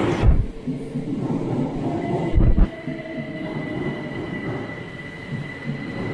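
Class 387 electric multiple unit pulling into an underground station platform: a steady rumble with a steady high whine over it, and two heavy low thumps, about a third of a second in and about two and a half seconds in.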